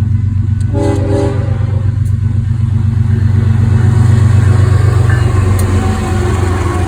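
BNSF freight train passing close by: a short horn blast about a second in, over the loud, steady low rumble of the diesel locomotives and cars.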